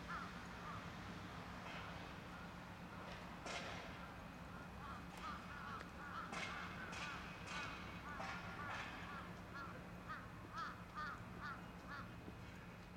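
Birds calling in short, repeated calls, coming in quick runs toward the end, over a steady low hum.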